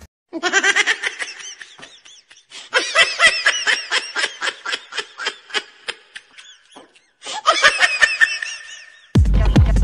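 High-pitched laughter in three bouts of rapid pulses. Near the end it cuts to a different loud, low, heavy sound.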